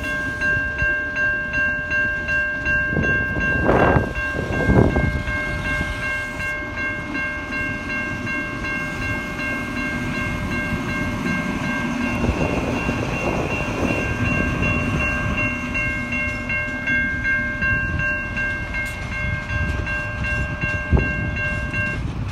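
Level crossing bells ringing steadily while an XPT passenger train, with its diesel power car, rolls slowly past with a low rumble. There are two heavier wheel clunks about four and five seconds in and a sharp knock near the end. The bells stop near the end as the crossing clears.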